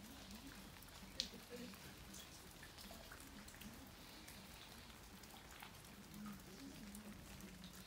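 Light rain falling on garden foliage, with scattered drops ticking and one sharper drop about a second in.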